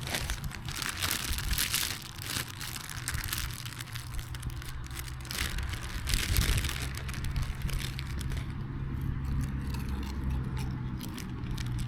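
Plastic snack wrapper being handled and opened: irregular crinkling and crackling throughout, over a steady low hum.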